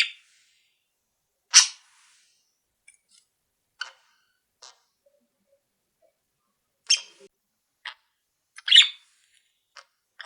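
Caged pet birds giving short, sharp calls, about a dozen scattered with gaps of quiet between them; the loudest come about a second and a half in and again around seven and nine seconds in.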